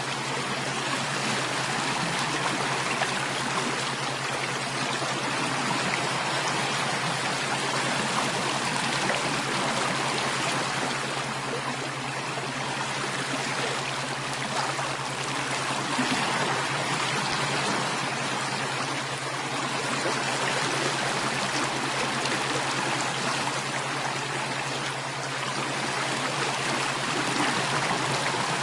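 A flowing stream of water: a steady, even rush and trickle that neither starts nor stops, with a constant low hum underneath.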